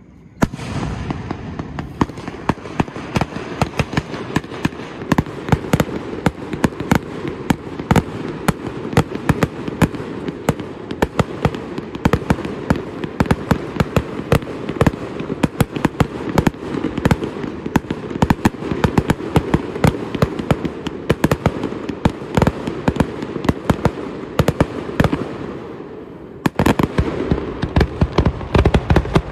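Fireworks going off in a dense barrage, many sharp bangs in quick succession over a steady rumble, with a brief lull near the end before the bangs start again.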